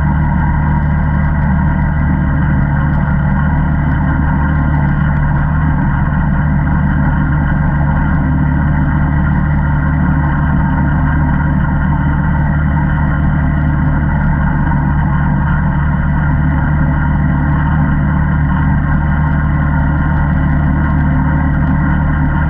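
Single-cylinder ATV engine running at steady, unchanging revs.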